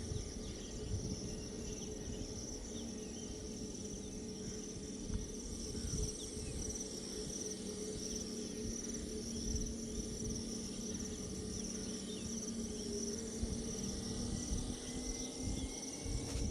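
Steady chirring of insects over the low, steady hum of a distant jet airliner's engines. Near the end the engine tone starts to rise as the engines spool up for take-off.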